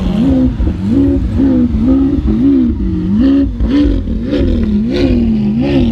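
Supercar engine revved in quick repeated throttle blips, about two a second, over the steady drone of other engines running nearby.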